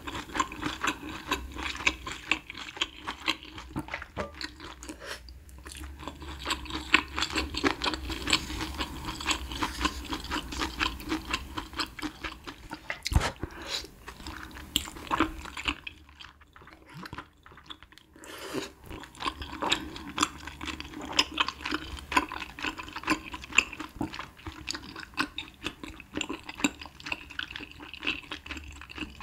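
Close-miked chewing of thick, chewy bunmoja glass noodles from spicy malatang: wet, sticky mouth sounds with many small clicks, easing off briefly a little past the middle.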